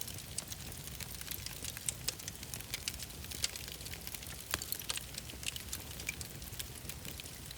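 Wood fire crackling in a fireplace: a steady run of small pops and snaps over a low rumble, with one sharper pop about four and a half seconds in.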